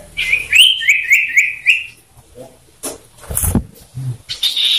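Common iora calling: a quick run of about six repeated whistled notes in the first two seconds. A few sharp knocks follow a little past the middle.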